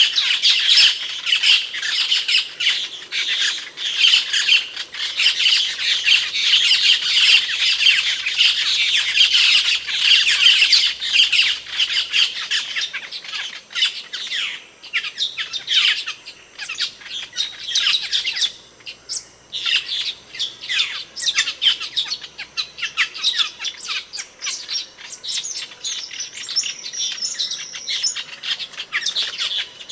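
Asian glossy starlings giving a dense chatter of short, sharp, squeaky calls, busiest at first and thinning out later, with a brief lull a little past the middle.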